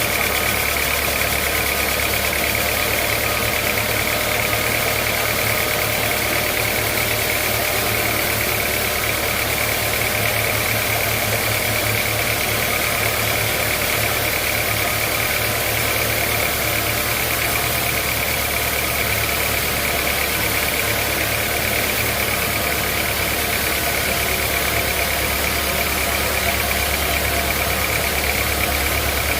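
Sawmill machinery running steadily: a low engine drone with a steady high whine over it, unchanging throughout.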